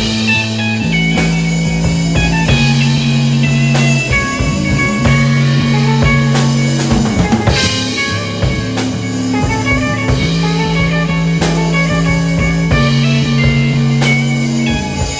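Instrumental rock jam in A major: electric guitars and bass holding notes and chords over a steady drum-kit beat.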